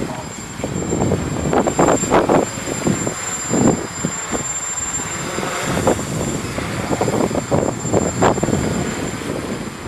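Strong wind buffeting the microphone in irregular gusts, over the buzz of a quadcopter's electric motors and propellers, with a steady high whine.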